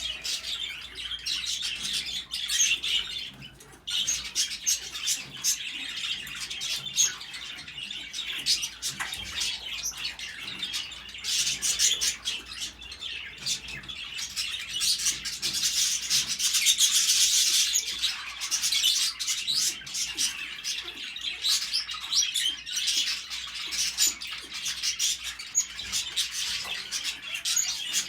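A pair of African grey parrots chirping and clicking rapidly without pause while mating, louder for a couple of seconds a little past the middle.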